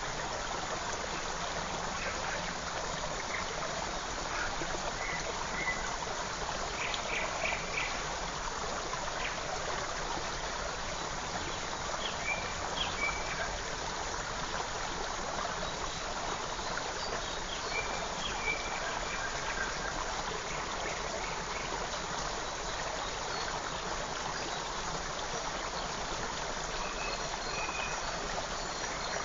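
Forest creek flowing steadily, with scattered short bird chirps that come and go over the water.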